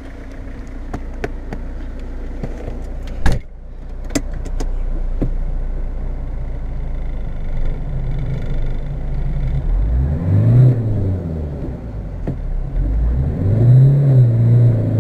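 Fiat Tipo's 1.9 turbodiesel engine idling, with a sharp knock of a car door shutting about three seconds in. Near the end the engine is revved up, falls back, then is revved again and held high as the car, stuck in snow, tries to pull out.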